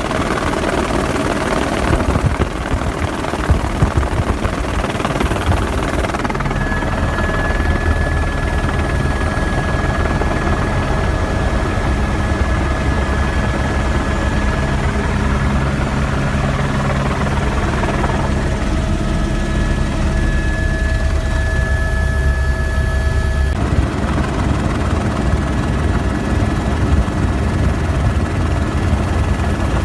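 Helicopter in flight: steady rotor chop with engine rumble, and a thin steady turbine whine through the middle part. The sound changes abruptly a few times, as if cut between shots.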